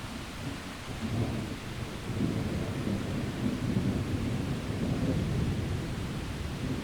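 Thunder rumbling low and rolling, swelling about a second in and carrying on, over a steady hiss of rain.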